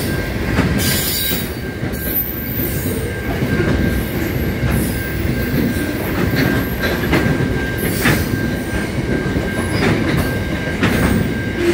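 Grain train hopper wagons rolling past, a steady rumble with a thin, steady high wheel squeal and irregular clacks as the wheels cross rail joints.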